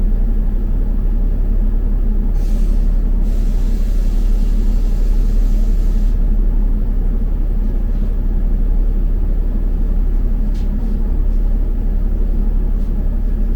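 Steady low engine and road rumble inside a London double-decker bus. A couple of seconds in, a hiss starts, sharp at first and then fainter for about three more seconds before stopping.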